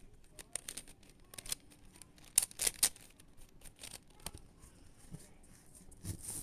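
A plastic twisty-puzzle cube being turned by hand: irregular clicks and clacks of its layers, loudest in a quick cluster about two and a half seconds in.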